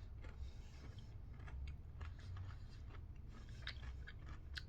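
Faint chewing of a milk chocolate bar with crunchy waffle cone pieces: soft, irregular crunches and clicks.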